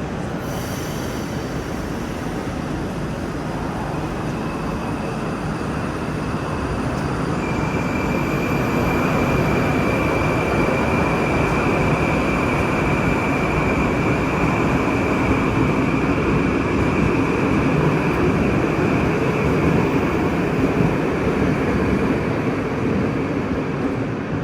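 Metro train running: a steady rumble that grows louder over the first several seconds, with a steady high whine joining about seven seconds in.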